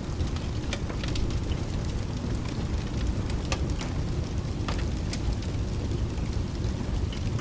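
Wood fire crackling, with sharp pops scattered irregularly, over a steady low rumble of rain.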